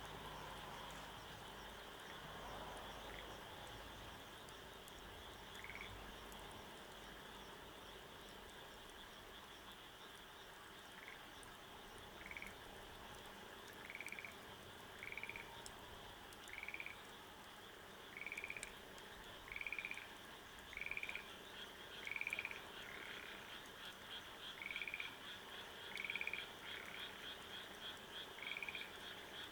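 A frog calling over and over, a short pulsed croak about once a second, starting roughly a third of the way in. A steady high-pitched trill runs behind it.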